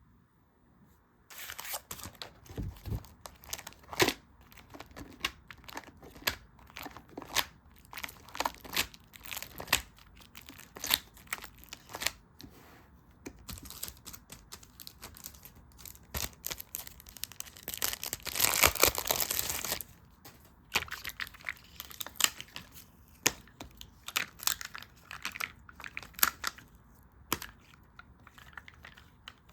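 Close-miked handling of stickers and paper: crinkling, rustling and small ticks one after another, with a steadier tearing rasp of about two seconds roughly two-thirds of the way through.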